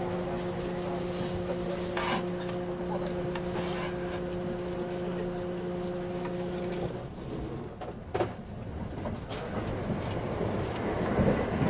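Cabin of a Joban Line limited express train (E657 series electric multiple unit) running at speed: a steady rumble of wheels on rail under an even hum that stops abruptly about seven seconds in. A brief knock follows a moment later, and the rumble swells near the end.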